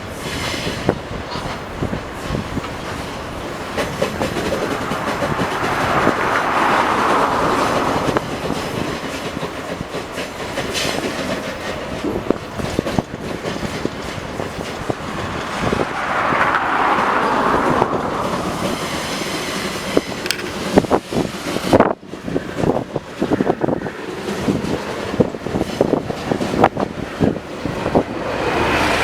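Freight train wagons rolling past, their wheels clacking over rail joints in an uneven run of clicks, with a rushing noise that swells twice.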